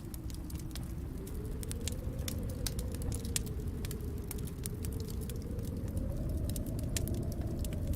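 Wood fire crackling, with frequent sharp pops and snaps over a low, steady rumble.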